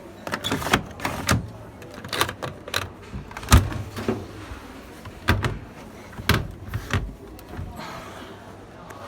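Front-loading washing machine doors and fittings being handled: a series of latch clicks and knocks, irregular, the loudest clunk about three and a half seconds in.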